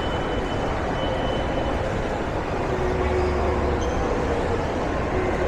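Steady rumble of a passing vehicle, with faint whining tones drifting over it.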